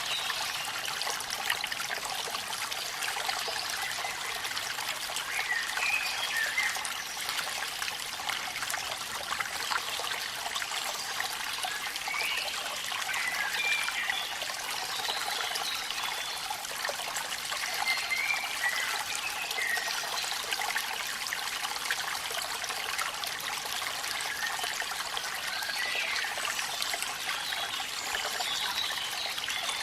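Steady rush of falling water from a waterfall in the rain, with faint short chirping calls now and then.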